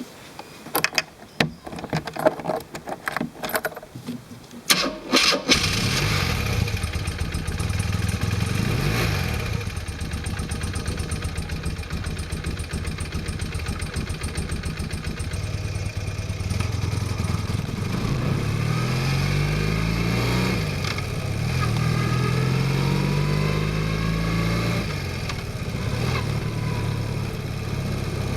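An engine being started: about five seconds of irregular short knocks and cranking bursts, then it catches and runs steadily, with its revs rising and falling a few times later on.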